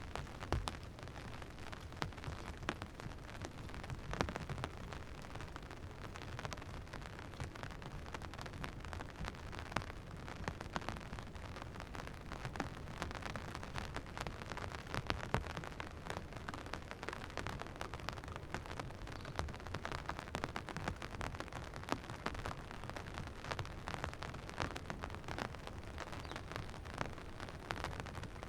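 Steady rain falling, with many sharp drop hits scattered throughout over a low rumble.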